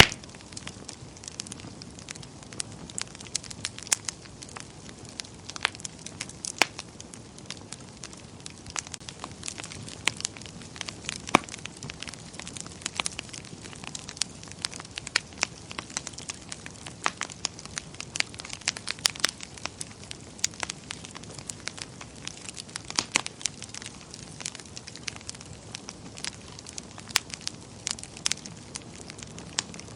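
Wood fire burning in a fireplace, crackling with frequent irregular sharp pops over a low steady hiss of flame.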